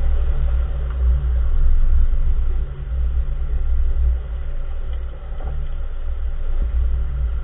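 Steady low rumble of a 2014 Nissan March on the move, with a couple of faint knocks in the second half: the unexplained clunking from the front wheel that the owner is trying to trace.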